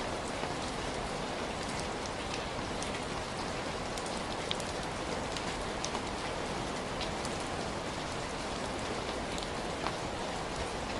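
Heavy rain falling steadily, a dense even hiss with the sharp ticks of individual drops hitting a surface scattered through it.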